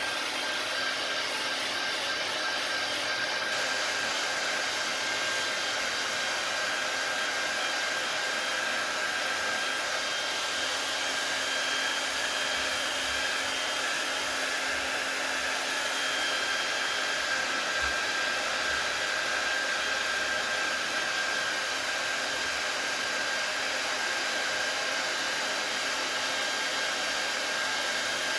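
Handheld hairdryer running steadily, a constant rush of blown air with a steady high whine, blowing heat onto vinyl wrap film.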